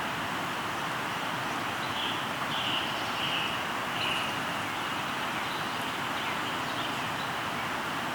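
A river flowing steadily, with a few short bird notes about two to four seconds in.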